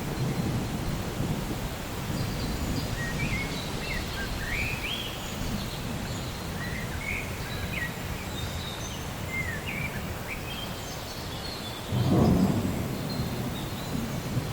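Thunderstorm: a continuous low rolling rumble of thunder over a steady hiss of rain, swelling into a louder roll of thunder about twelve seconds in. Short high chirps come and go through the middle.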